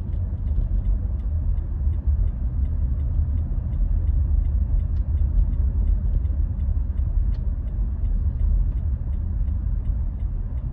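Car driving on a road, heard inside the cabin: a steady low rumble of engine and tyre noise, with a light regular ticking about three times a second.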